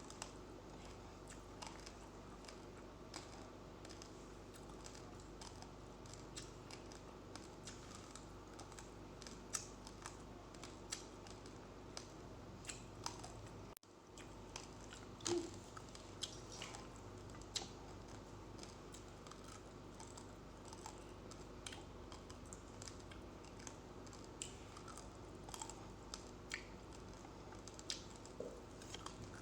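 Faint, irregular crunching and clicking of raw rice grains being chewed, over a steady low background hum.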